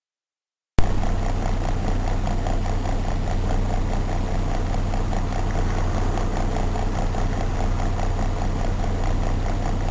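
A car engine running steadily with a low hum and a faint rapid pulse, cutting in abruptly less than a second in after dead silence.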